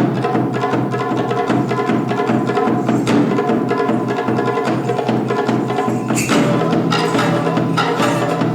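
Japanese taiko drums played in a fast, dense rhythm with sharp wooden clicks. They come in suddenly at full volume with no lead-in.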